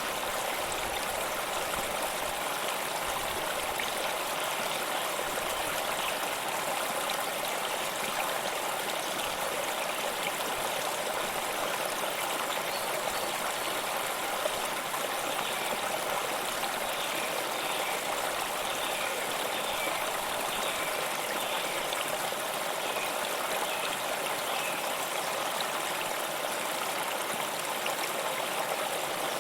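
Running water flowing steadily, an even babbling rush with no break.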